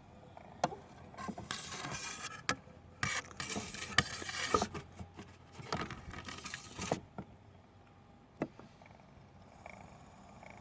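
Scattered sharp clicks and knocks mixed with short bursts of scraping and rustling, the sound of something being handled; it grows quieter after about seven seconds in.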